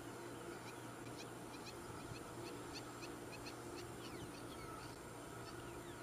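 A faint series of short, high bird chirps, two or three a second, some sliding down in pitch, over a steady background hiss; the chirps stop shortly before the end.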